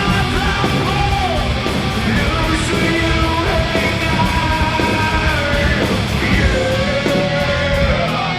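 Live heavy metal band playing loud, with distorted electric guitar and shouted vocals.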